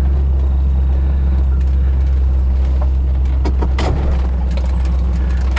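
Cabin noise of a moving car: the Chevrolet 327 small-block V8 and dual exhaust give a steady low drone under the road noise, with a few brief rattles or clicks about halfway through.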